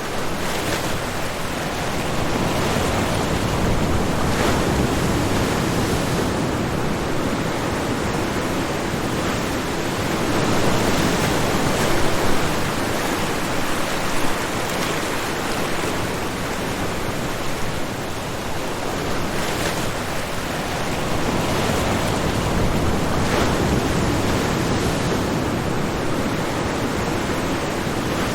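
Ocean surf: waves breaking and washing onto the shore, a continuous rushing noise that swells and eases every few seconds.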